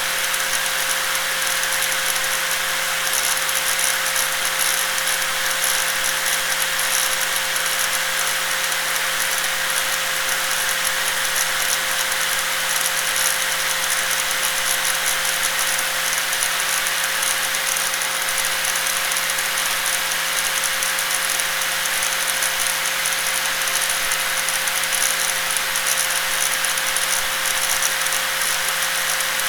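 Electric angle grinder running continuously at constant speed: a steady motor whine over a dense, rattly hiss, with no change in pitch or level.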